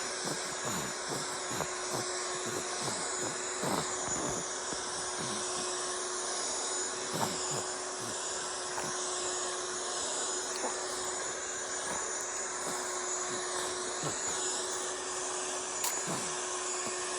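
Vacuum cleaner noise played as white noise: a steady, unbroken motor hum with a constant hiss, used to soothe a baby to sleep.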